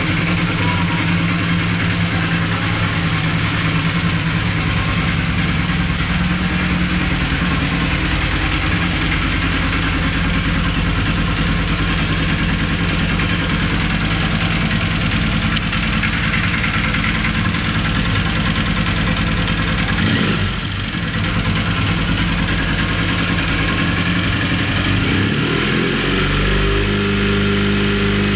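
Honda CB450 motorcycle's parallel-twin engine idling at low rpm, run to show the strange engine noise the owner is chasing. Its speed dips briefly about two-thirds of the way through, then rises near the end and holds at a higher, steady rpm.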